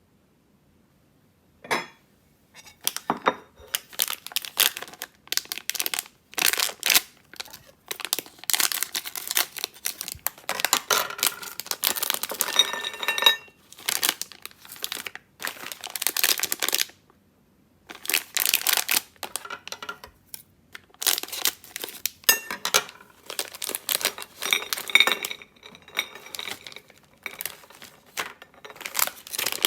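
Packaging being handled and torn open, with irregular crinkling and rustling rustles. It starts about two seconds in and pauses briefly around two-thirds of the way through.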